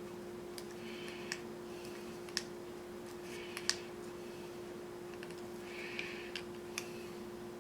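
Screwdriver driving small screws into plastic model-kit parts: scattered sharp clicks and short raspy scrapes as the screws are forced in, over a steady low hum.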